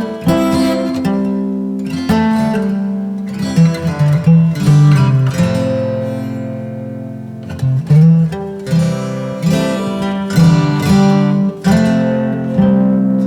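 Background music: acoustic guitar strummed and picked in a steady chord progression.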